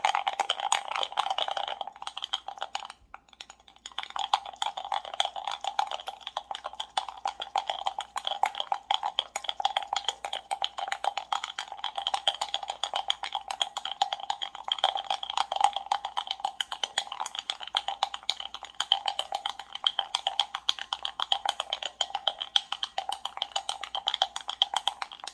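Ice cubes rattling and clinking in a glass of iced coffee as it is stirred or swirled: a fast, continuous clatter of small clicks that drops away briefly about three seconds in, then carries on.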